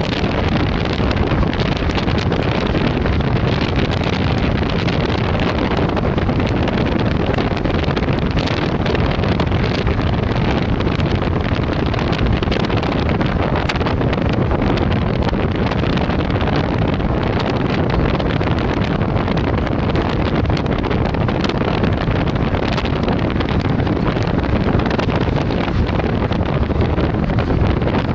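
Loud, steady rush of storm wind blowing across the microphone.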